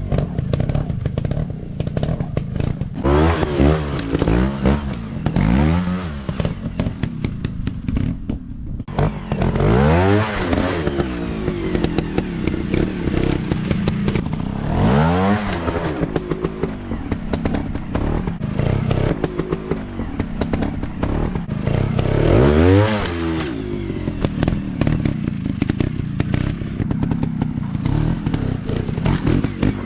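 Single-cylinder dirt bike engines revving up and dropping back again and again, about every few seconds, with many short knocks and rattles mixed in.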